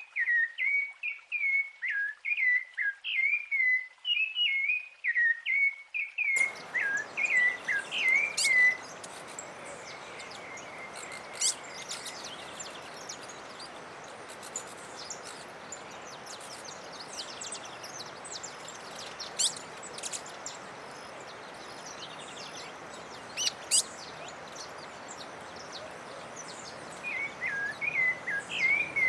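Songbirds singing: one bird repeats a quick phrase of whistled notes. About six seconds in, a steady forest hiss comes in with scattered short high chirps from other birds. The whistled song fades out and comes back near the end.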